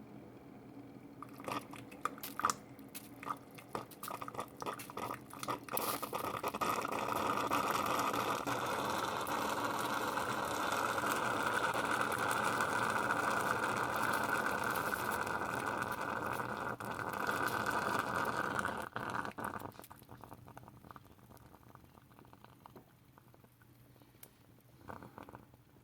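A few clicks and knocks of handling, then a steady rush of flowing liquid for about thirteen seconds that stops suddenly.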